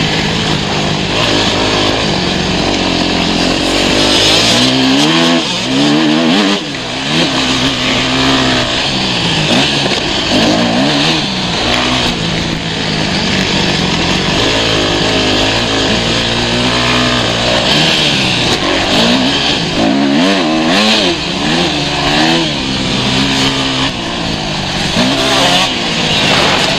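Motocross dirt bike engines running loud on a track, the pitch rising and falling over and over as the throttle is opened and closed through gear changes, with more than one bike at times.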